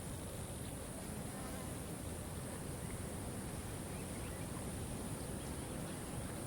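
Waterfall: a steady rush of falling water, with a constant high hiss above it.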